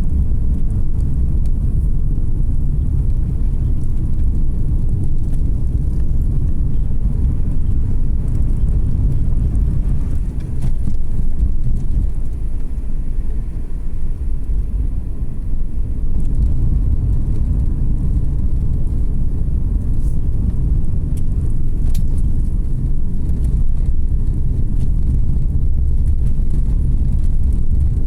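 Steady low rumble of a car driving: road, tyre and engine noise, with a brief lull about ten seconds in.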